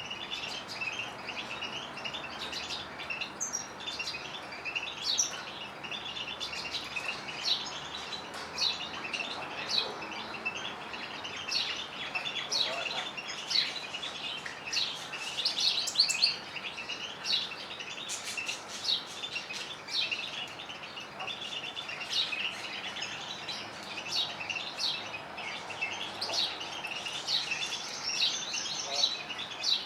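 Canaries and goldfinches singing together: an unbroken run of quick, high chirps and trills with no pause.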